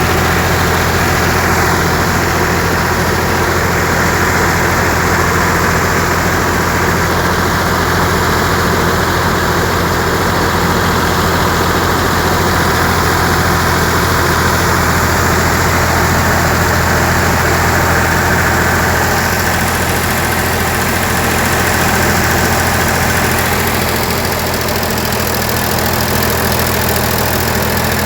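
Sonalika tractor's diesel engine running steadily while driving a thresher, a constant loud mechanical din with a deep steady hum.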